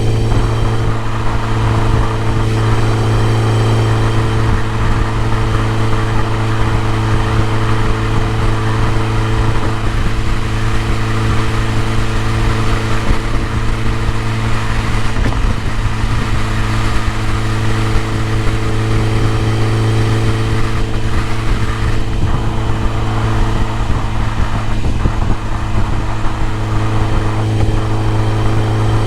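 BMW E30 M3's S14 four-cylinder engine running steadily at an unchanging engine speed, with no revving.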